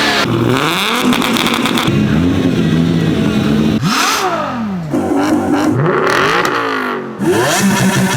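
Heavily modified Toyota Supra MK4's 2JZ straight-six with a big single turbo and straight-piped exhaust, revved in repeated blips just after start-up, its pitch shooting up and falling back each time.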